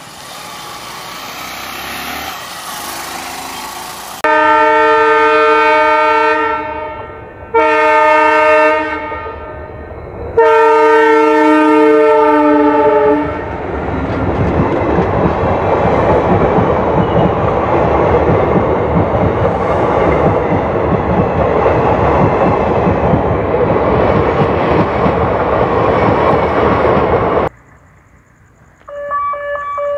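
Indian Railways diesel locomotive sounding its multi-tone horn in three blasts as the train nears a level crossing. The train then passes with a steady rumble and clatter of wheels on the rails. It cuts off suddenly near the end.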